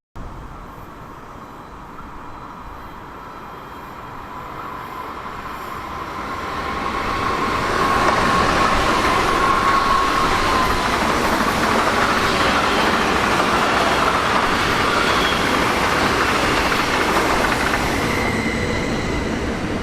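A train approaching and running past, growing louder over several seconds and then staying loud, with a thin high tone in the first half.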